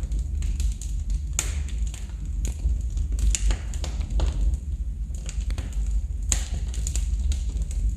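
Wood fire burning in a fireplace: irregular sharp crackles and pops, a few louder snaps among them, over a steady low rumble.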